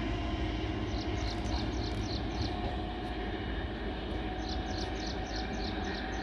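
Low, steady rumble of an approaching electric train, heard from the station platform. Two runs of short, high chirps come over it, about a second in and again from about four seconds in.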